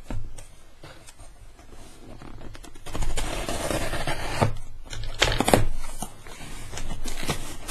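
A parcel being opened by hand: packaging scraped, rubbed and torn, with a few sharp knocks about five seconds in.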